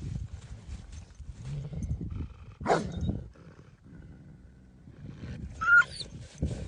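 Kangal shepherd dog vocalizing: one loud rough call about two and a half seconds in and a shorter, higher-pitched call near six seconds, over irregular low thumps.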